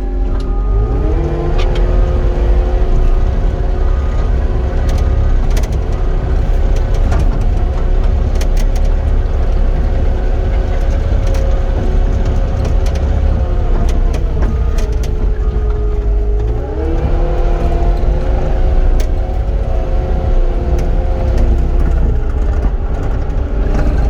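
Cat 259D compact track loader's four-cylinder diesel engine throttled up about a second in and running steadily at high revs while grading. Its pitch dips and climbs again about two-thirds of the way through, with scattered short clicks and clanks over the top.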